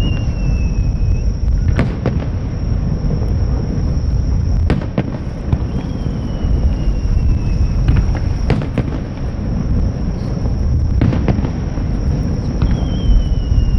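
Fireworks display: a continuous low booming rumble with sharp bursts cracking over it, a few of them in quick succession past the middle. A thin falling whistle sounds twice.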